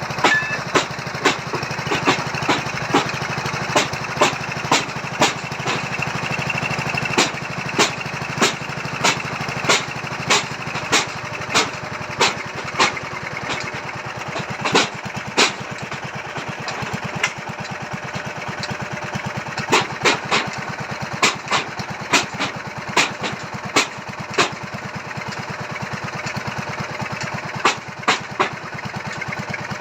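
Small engine-driven foundation boring machine running steadily while it drills a pile hole in the soil, with a sharp knock roughly every half second to a second.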